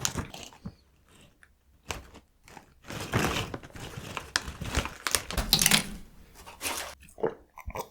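Plastic snack bag crinkling and rustling in the hands, with a stretch of tearing or ripping noise in the middle as it is handled and opened; scattered clicks near the end.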